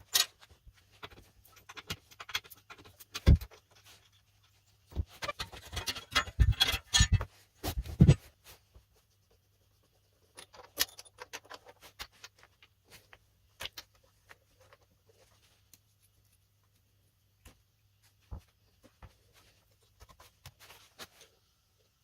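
Metal engine parts and hand tools clinking, clicking and knocking during a moped engine teardown: scattered light clicks, a busier spell of metallic clattering about five to eight seconds in, and a few dull knocks.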